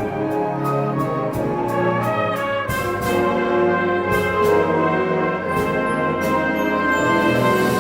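High school symphonic wind band playing a Christmas arrangement, full chords with brass to the fore over a steady percussion beat.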